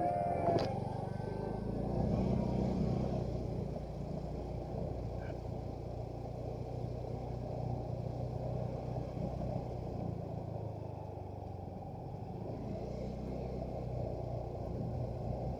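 Motorcycle engine running steadily at low speed, with a slight rise in level about two seconds in.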